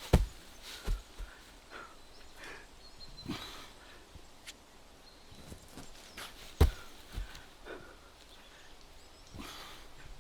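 Heavy dull thuds from a strongman's odd object being dropped and set down outdoors, two loud ones about six and a half seconds apart. Between them come smaller knocks and the lifter's strained breaths during the press reps.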